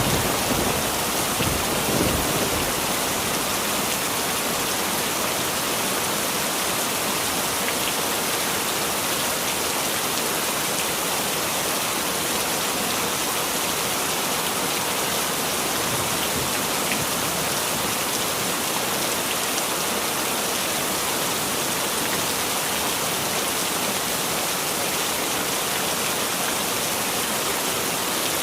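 Heavy rain falling in a steady, even hiss, with the last of a thunder rumble dying away in the first couple of seconds.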